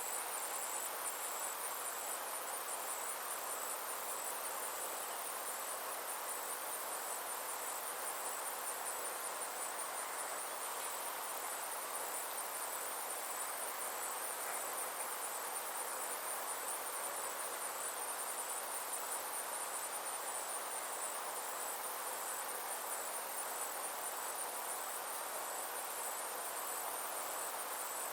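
Insects trilling continuously in a high, finely pulsing drone, over a soft steady rushing background.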